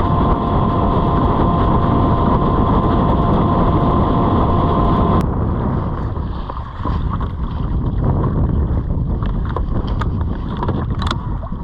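Small boat's outboard motor running steadily as the boat travels, with a steady whine over the first five seconds and wind buffeting the microphone. The sound changes abruptly about five seconds in, then carries on running.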